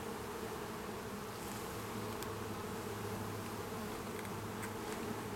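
Honeybee colony buzzing in a steady, even hum from an opened hive.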